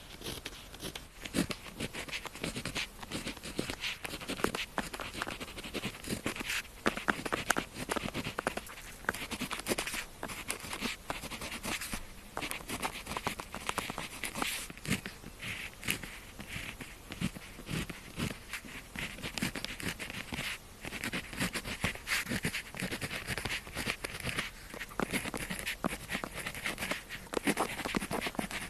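Pen tip scratching across paper in continuous writing strokes, with small taps and clicks as letters start and end.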